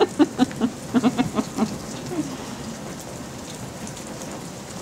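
Steady rain falling on a surface. In the first second and a half, a quick string of short high-pitched syllables, about five a second, from a toddler babbling.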